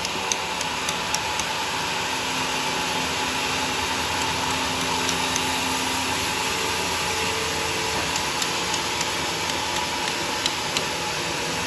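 Homemade sawmill running: a steady machine noise with faint steady tones, broken by scattered sharp ticks.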